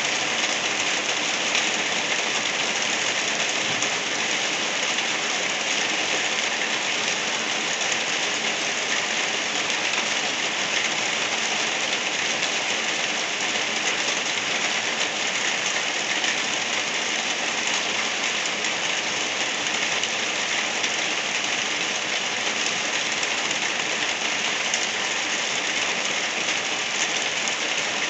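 Gentle rain falling steadily: an even hiss of rain with no breaks or changes.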